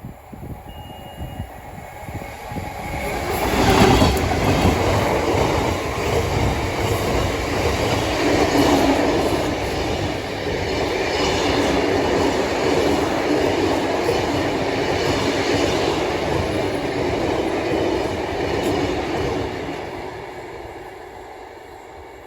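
A train passing close by on the line: the noise of its wheels on the track builds over a couple of seconds, stays loud for about fifteen seconds, then fades away.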